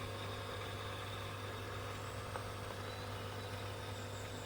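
Sound-equipped model Union Pacific reefer car playing its refrigeration-unit sound, recorded from a real reefer, through its small onboard speaker: a steady engine-like drone with a low hum.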